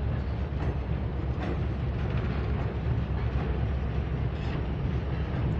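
Freight train of covered hopper cars rolling across a steel truss trestle: a steady rumble of wheels on the bridge deck, with a few faint clicks.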